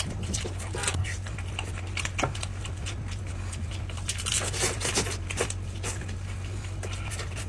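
Eating and food-handling sounds: irregular short clicks, crunches and rustles, busiest about halfway through, over a steady low hum.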